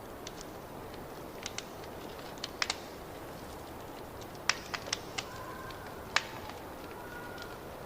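Wood fire crackling in a fireplace: a steady low rumble under irregular sharp pops, a few louder ones about midway and past six seconds in, with a faint thin whistle in the second half.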